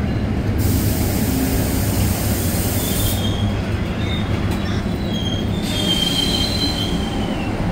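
NJ Transit passenger coaches rolling past with a steady low rumble of wheels on rail. A bright high hiss runs for the first three seconds, then thin high-pitched wheel squeals come in and out until near the end.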